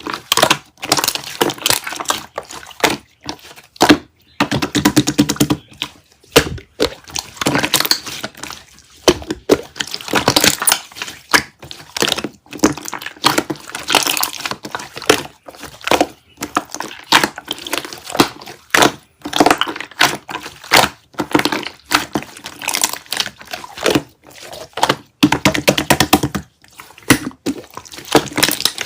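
Slime being squeezed and folded by hand, giving runs of sticky crackles, clicks and pops from trapped air, in bursts of a second or two with short pauses between.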